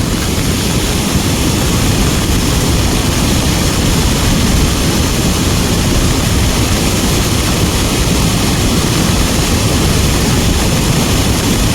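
Strong wind buffeting the microphone in a rainstorm: a steady, loud rushing rumble.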